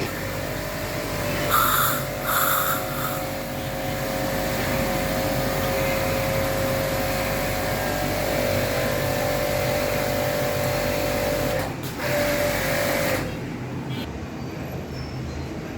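Prescott high-pressure washer with a 3000 W induction motor running, a steady motor whine under the hiss of the spray. The high hiss falls away about thirteen seconds in, leaving a quieter hum.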